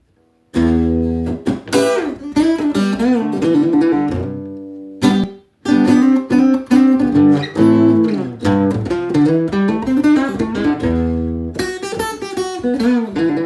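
Acoustic guitar playing a blues piece, single plucked notes over low bass notes. It starts about half a second in and breaks off briefly near the middle before carrying on.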